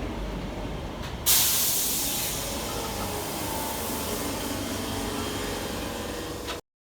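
Northern Class 323 electric train at the platform, with a sudden loud hiss of air about a second in that eases into a steady hiss, typical of its brakes releasing air. The sound cuts off abruptly near the end.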